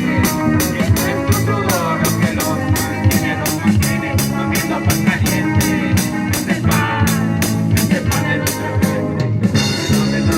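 Live rock band playing an instrumental passage: guitar over a drum kit, with cymbal hits keeping a steady beat.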